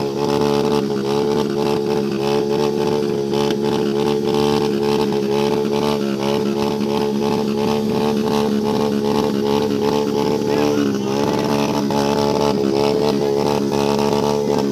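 Motorcycle engine running at a steady, even drone while riding, with a slight dip in pitch about 11 seconds in.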